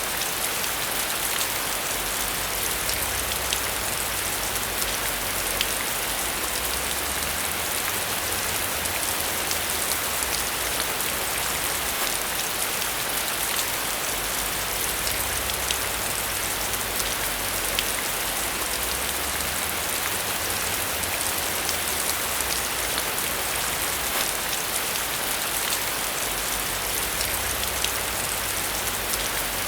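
Steady rain falling, a constant hiss with many individual drops ticking through it, over a low rumble that swells and fades.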